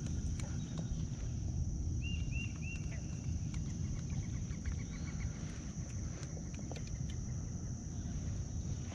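Outdoor lakeside ambience: a steady low rumble and a steady high hiss, with a bird giving three short chirps about two seconds in, followed by a quick run of ticking notes.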